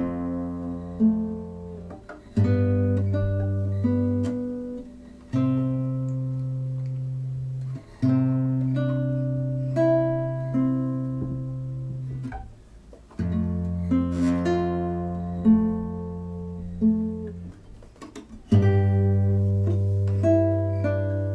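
Acoustic guitar playing a slow improvisation: plucked and strummed chords, each ringing out and fading over a few seconds before the next, over low sustained bass notes.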